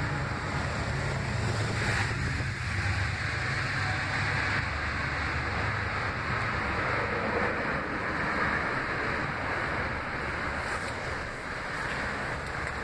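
Metro-North Shoreliner commuter train running past on the tracks below: a steady rumble of wheels on rails with a low hum underneath, holding an even level as the cars go by.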